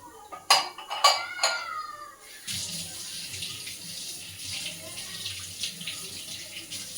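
A few sharp clanks of metal kitchen utensils, the last one ringing briefly, then a tap starts running into a sink about two seconds in and keeps running steadily.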